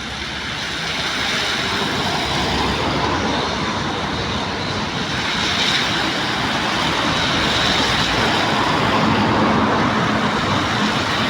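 Heavy rain pouring down in a steady, dense rush that swells a little over the first couple of seconds.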